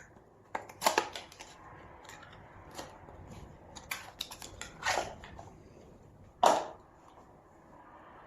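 Handling noises: scattered clicks, taps and rustles of objects being picked up and moved, with a sharper knock about six and a half seconds in.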